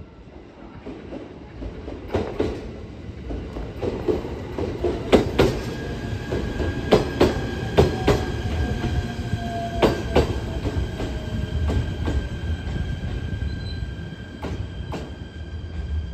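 JR East E129-series electric train pulling into a station and slowing to a stop: a low rolling rumble with irregular clicks of the wheels over rail joints and points, a high steady squeal, and the traction motor's whine falling in pitch as it slows.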